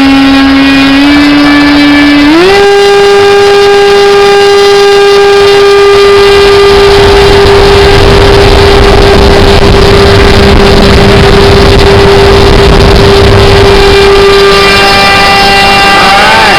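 Electric motor with a propeller, run through an ESC, whining loudly: the pitch steps up twice in the first few seconds as the throttle is raised, then holds steady over a rushing wash of air, and drops as the motor starts to wind down right at the end.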